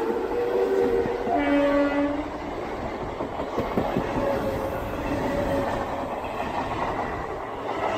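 ICF electric multiple-unit local train passing close by at speed: a steady rush of wheel and carriage noise with rail-joint clacks. A short horn blast sounds about a second and a half in.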